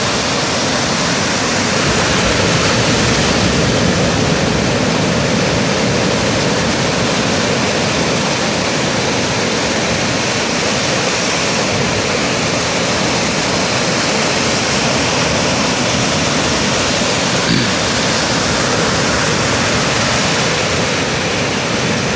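Surf breaking on the shore: a loud, steady rush of water noise with no let-up.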